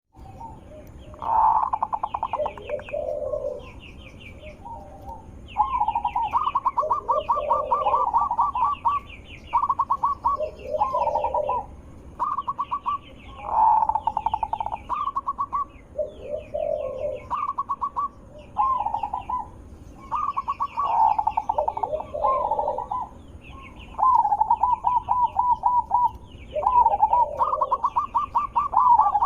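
Zebra dove (perkutut) cooing: its rapid trilled phrases repeat every few seconds, with a higher-pitched chirping running alongside.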